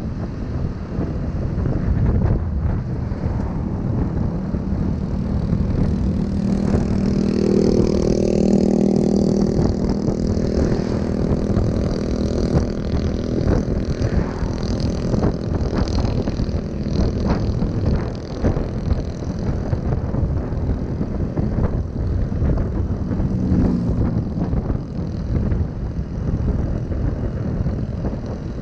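Motorbike running while being ridden, with heavy wind buffeting on the microphone. A steady engine hum stands out for about ten seconds in the middle, and briefly again later.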